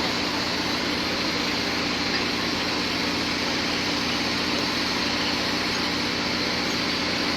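Large diesel engine of heavy equipment running steadily at idle, an even drone with a low hum.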